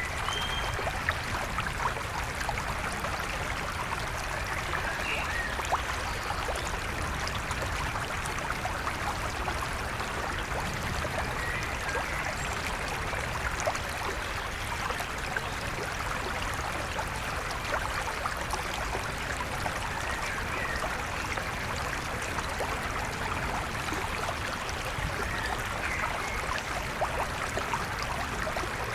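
River water flowing steadily over rocks, a continuous rushing with small splashes throughout. A few brief bird calls are heard faintly above it now and then.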